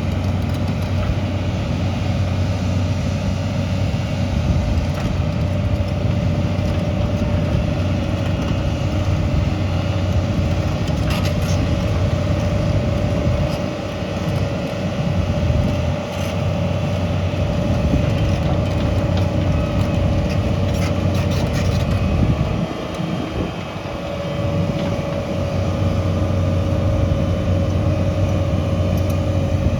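Heavy construction machine's engine running steadily under work, with a few sharp clanks and a brief easing of the engine about 23 seconds in.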